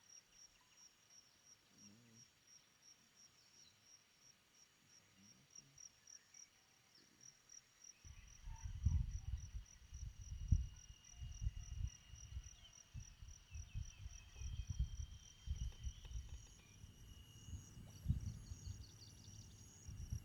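Insects chirring steadily in a fast, even pulse. From about eight seconds in, an irregular low, gusty rumble joins and becomes the loudest sound.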